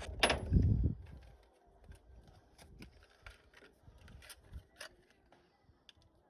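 Faint, irregular small clicks and taps of parts and tools being handled during a spark plug change, after a brief muffled low rumble in the first second.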